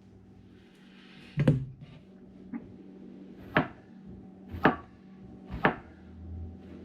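Kitchen knife slicing through an onion and knocking on a cutting board, five sharp cuts about a second apart, the first the loudest, over a faint steady hum.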